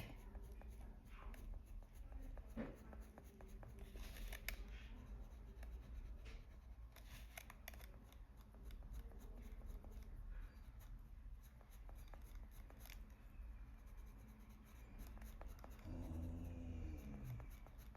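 Faint scratching of a Polychromos coloured pencil on paper, many short flicking strokes shading an area.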